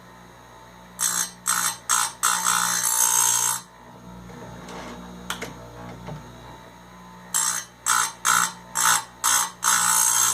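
Electric chainsaw-chain grinder with its motor humming steadily, its wheel grinding two chain cutters about six seconds apart. Each one gets a few short touches of the wheel and then a longer grind of a second or more.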